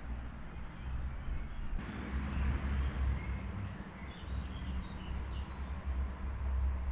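A few short bird chirps about four to five seconds in, over a steady low rumble and hiss.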